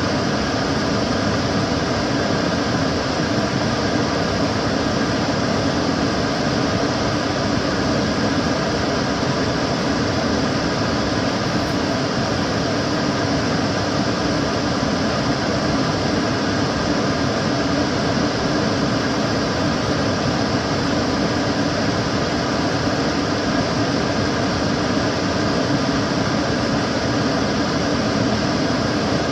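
Kitchen cooker hood extractor fan running steadily, a constant rushing of air with a faint hum underneath.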